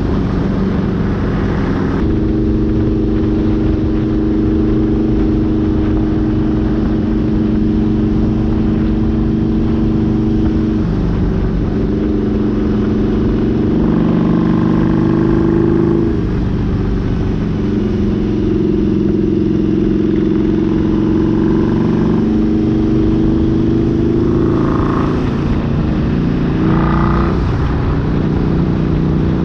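Harley-Davidson V-Rod's liquid-cooled V-twin engine running at a steady cruise, its pitch holding level for long stretches and stepping to a new pitch a few times, with wind rushing over the microphone.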